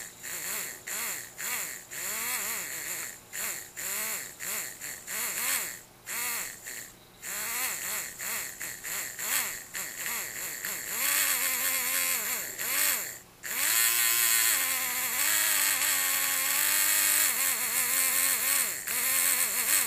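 Savox 236 RC servo motor and gears whining in short bursts that rise and fall in pitch and keep cutting in and out, the sign of an intermittent connection at the motor. About two-thirds of the way through it runs on more continuously with a wavering pitch.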